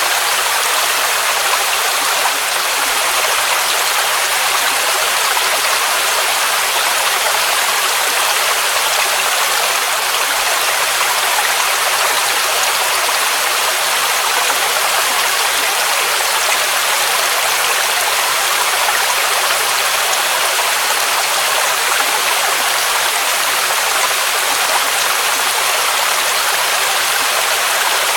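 Waterfall rushing steadily: a loud, even hiss of falling water with little deep rumble, unchanging throughout.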